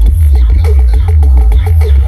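Electronic dance music blasted very loud through a huge carnival sound system, dominated by a heavy, continuous sub-bass from its stacked subwoofers.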